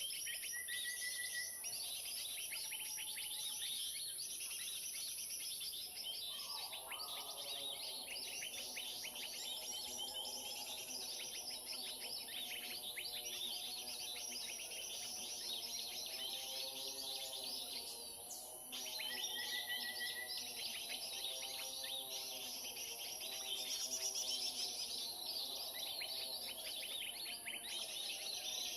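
A played-back lure recording of many small birds chirping and calling at once, the 'commotion' sound trappers use to draw birds in. Dense, rapid chirping runs throughout over a steady high hiss. From about seven seconds in, a lower wavering call repeats again and again.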